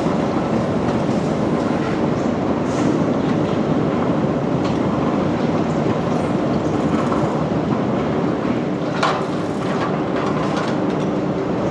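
Heavy machinery running steadily with a low hum and occasional sharp metallic clicks.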